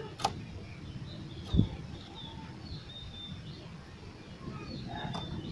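Faint, scattered short chirps and whistled notes of an oriental magpie-robin over a noisy background, with a sharp click about a quarter second in and a louder low thump about a second and a half in.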